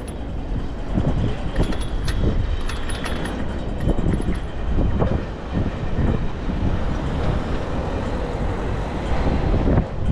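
Ride noise from a bicycle on city streets: a steady low rumble with frequent short knocks and jolts, and a few faint high ticks in the first few seconds.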